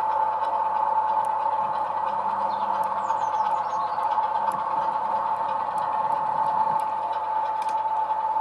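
OO gauge model locomotive's small electric motor whirring steadily as it runs along the track, with a few faint ticks.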